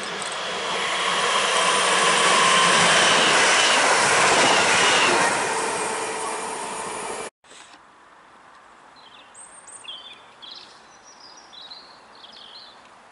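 A multiple-unit passenger train passing the platform at speed: a rush of wheel and rail noise with a faint whine in it, building to its loudest two to five seconds in, then fading. The sound cuts off suddenly at about seven seconds, leaving a quiet background with a few faint, high chirps.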